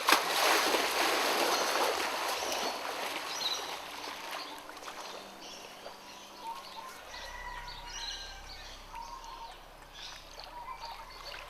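Water splashing and churning as a crocodile rolls after biting, loudest in the first couple of seconds and then settling into quieter trickling.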